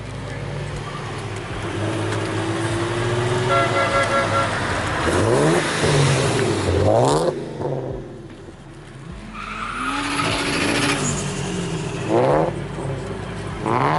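Car engines idling, with sharp revs that rise and drop in pitch about five seconds in and again near the end.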